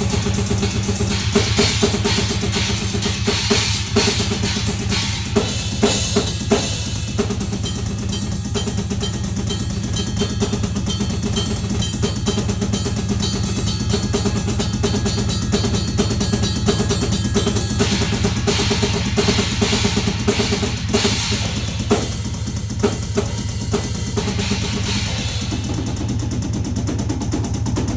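Loud, fast drumming on a drum kit, with dense, steady bass-drum strokes under snare and cymbals.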